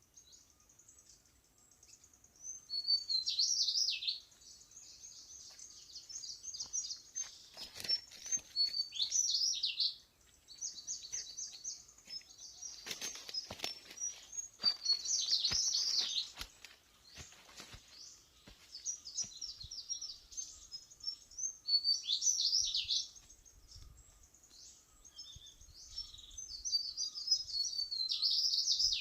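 Birds singing in repeated high, warbling phrases, with scattered clicks and knocks in the middle.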